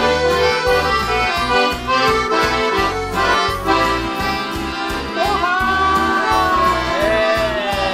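Accordion music in a German folk style, with a steady bass beat; a few long sliding tones join in about five seconds in.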